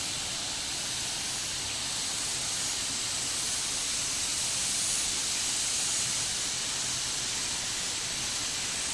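River water rushing over rocks, a steady even hiss of flowing water.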